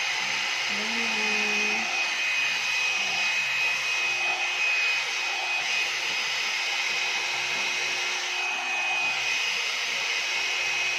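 One-step hot-air hair dryer brush running steadily while styling hair: a constant blowing rush with a steady high whine from its motor.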